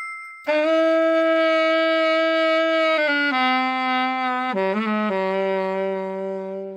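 Yamaha YAS-62 alto saxophone played in long held notes, stepping down in pitch, with a quick wavering run about halfway through. The last low note is held until it stops just after the end. A brief ringing tone fades out just before the first note.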